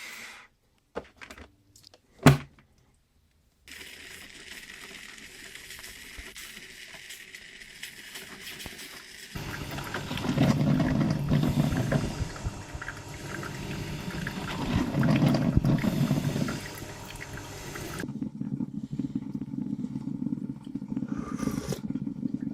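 Water pouring and gurgling in uneven spells, with a sharp knock about two seconds in. Steady hissing water noise follows a short break, and the sound grows louder and more uneven from about nine seconds.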